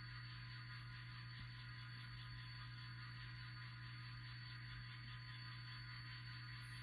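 Faint, steady low hum of an N scale sound-equipped diesel locomotive idling through its tiny decoder speaker, running through its warm-up after start-up.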